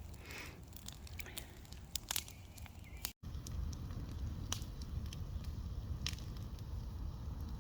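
Bonfire of scrap pallet wood crackling, with scattered sharp pops over a low rumble. The sound cuts out for an instant a little after three seconds in, then the crackling resumes with a heavier low rumble.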